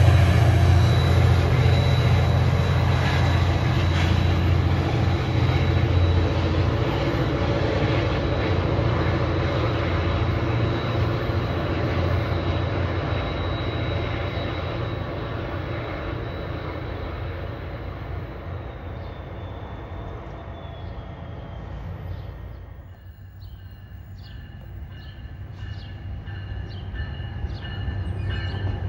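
Metro-North F40PH-3C diesel locomotive and its train pulling away, the low engine drone and rolling noise fading steadily over about twenty seconds. Near the end a second train approaches, with thin high ringing tones and clicks as the sound grows louder again.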